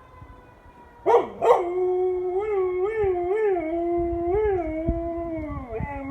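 Yellow Labrador howling in answer to fire truck sirens: two sharp yelps about a second in turn into one long howl that rises and falls in pitch several times, then slides down near the end.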